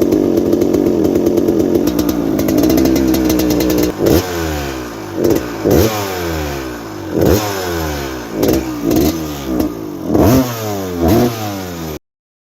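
A 2002 Suzuki RM250's single-cylinder two-stroke engine runs at a steady fast idle, then has its throttle blipped about eight times, each rev sweeping up and dropping back. The sound cuts off suddenly near the end.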